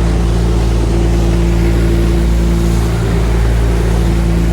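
Outboard motor of a small boat running steadily at cruising speed, a constant engine drone over a steady rush of noise.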